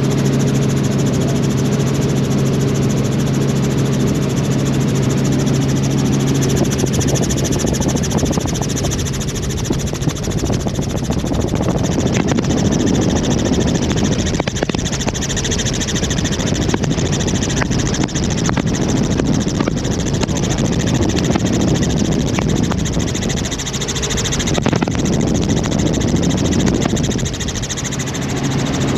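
Helicopter in flight heard from inside the cabin: steady engine and rotor noise. A low, even hum gives way after several seconds to a rougher rushing sound, and the hum comes back near the end.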